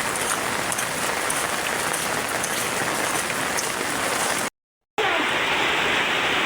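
Heavy rain falling, a steady hiss with the patter of drops. It breaks off abruptly about four and a half seconds in, and after a half-second gap the rain resumes, sounding duller.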